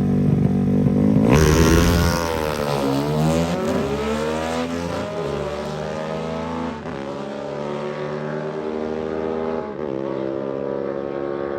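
Drag-racing motorcycle engine holding revs on the line, then launching loudly about a second in. It climbs through several gear shifts as it pulls away down the strip and fades.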